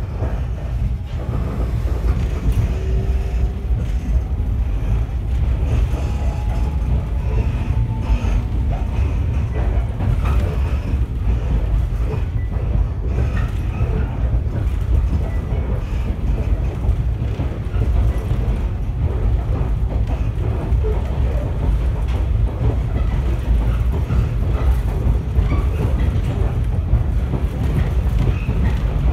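MC7001-series electric railcar, a converted JR 119 series, running along the line, heard from inside the carriage: a steady low rumble of wheels on rail with scattered clicks, and a faint rising whine a few seconds in.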